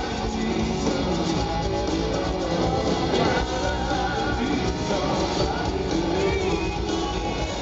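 Rock band playing live, with a full band sound of drums and guitars and a singing voice.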